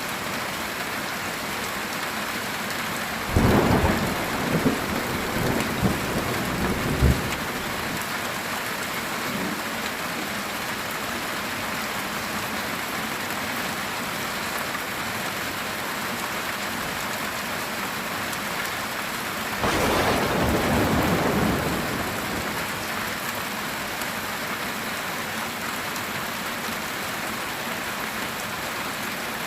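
Heavy rain falling steadily on a metal tin roof. Thunder cracks about three seconds in and crackles and rumbles for a few seconds, and a second peal of thunder rumbles for about two seconds a little before the twenty-second mark.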